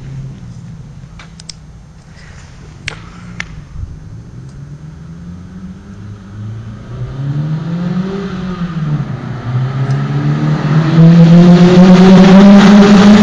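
Peugeot 206 GTI's exhaust through an Invidia GT300 muffler: the engine runs quietly at first, with a few sharp clicks. About eight seconds in it swells in a short rev and falls back, then builds and holds a loud, steady note for the last couple of seconds.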